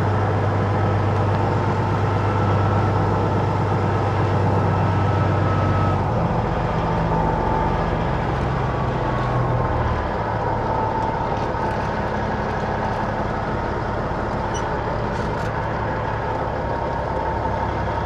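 Peterbilt 379 semi truck's diesel engine running at low speed while maneuvering; its steady note drops about six seconds in and again around ten seconds.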